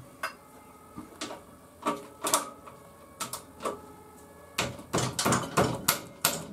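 Steel hand tools clicking and clinking: a 17 mm socket and socket wrench being handled. Scattered single clicks at first, then a quicker run of clicks from about four and a half seconds in.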